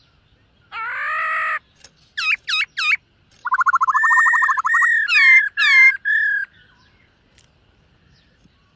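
Black-throated laughingthrush singing: a harsh rising note, then looping whistles, a fast trill running into a held whistle, and swooping downward notes, before it falls quiet for the last couple of seconds.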